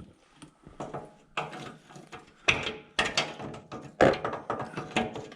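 Hand tools working on metal parts: irregular clicks, clanks and short ratcheting, loudest a few times in the second half.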